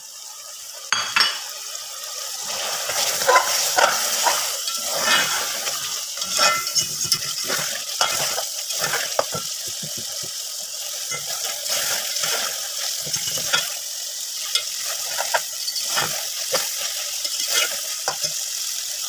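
Tomato and meat masala sizzling in oil in a metal pot while a slotted metal spatula stirs and scrapes it. Irregular scraping strokes sound over a steady sizzle. This is the bhuna stage, with the masala being fried down.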